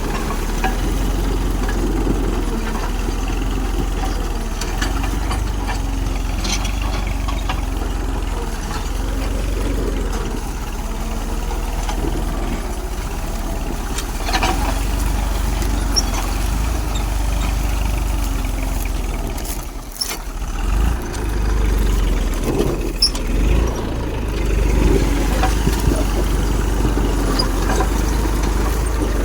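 Massey Ferguson 1035 DI tractor's three-cylinder diesel engine running steadily, with a brief dip in level about twenty seconds in.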